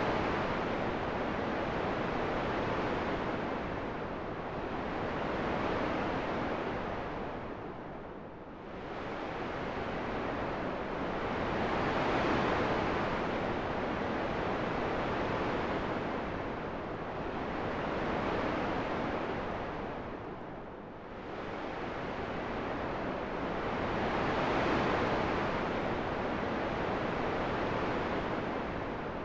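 Wind blowing in slow gusts: a steady rushing noise that swells and fades every few seconds, easing off briefly about eight seconds in and again about twenty-one seconds in.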